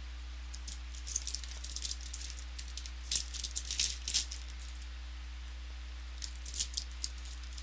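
Trading cards being handled and flipped through by hand, in clusters of quick, crisp clicks and rustles, busiest about three to four seconds in. A steady low electrical hum runs underneath.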